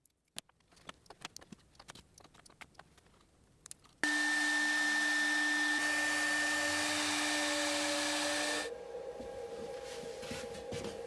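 A few light clicks and taps, then about four seconds in a CNC router spindle starts running with a steady whine over a hiss. A little before nine seconds it drops to a quieter steady hum at a different pitch.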